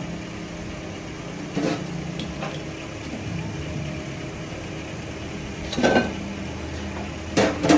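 A steady engine-like mechanical hum, with four sharp metal knocks and clinks: one about a second and a half in, one near six seconds, and two close together near the end.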